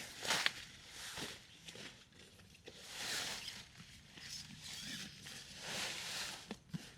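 A series of irregular rustling, crunching noises, about six over several seconds, with a couple of light knocks.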